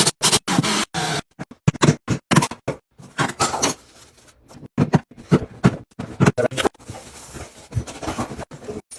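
Irregular sharp knocks and scraping from a hammer and chisel working cemented material out around an old toilet flange. The strikes come quickly for the first few seconds, then spread out.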